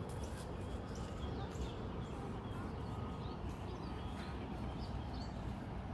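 Outdoor ambience with small birds chirping and twittering at many short moments over a steady low rumble.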